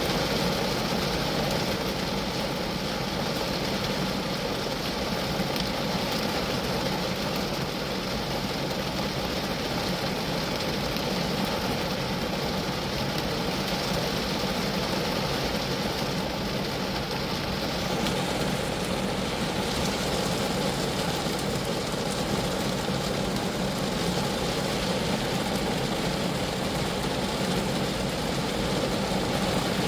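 Steady rain falling on a Geo Metro, a dense even patter of drops on the small car's body.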